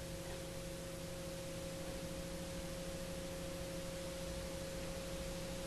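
Garrett TPE331 turboprop engines running steadily at 97% RPM during a ground run-up, heard faint and muffled as a steady hum with a few held tones.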